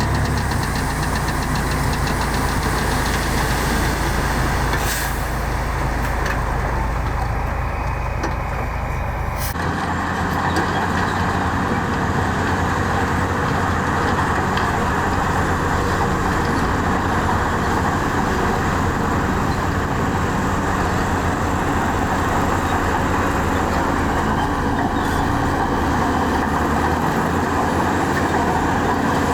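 Heavy diesel earthmoving machinery running steadily, engine noise with a low, even hum. The character of the sound changes abruptly about five seconds and again about ten seconds in.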